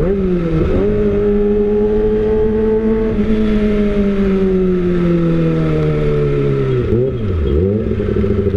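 Kawasaki ZX-25R's 250 cc inline-four running through an aftermarket Austin Racing exhaust while riding. Near the start the revs dip and climb back. The engine note then falls slowly as the bike slows, dips and rises again near the end, and settles into a steadier low note.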